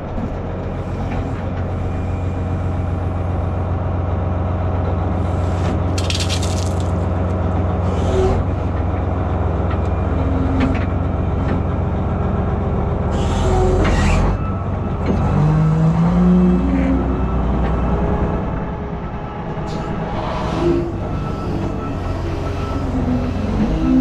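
Heavy diesel truck engine running steadily, with two short hisses of air and the engine pitch rising and falling in the second half.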